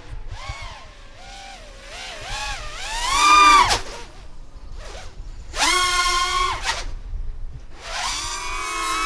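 3D printer's stepper motors whining in a series of separate moves, the pitch gliding up and down and sometimes holding steady for about a second.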